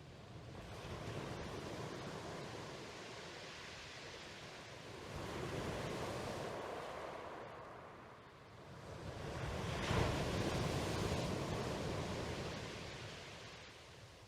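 Ocean surf: three waves swell and wash away in turn, the last one the loudest.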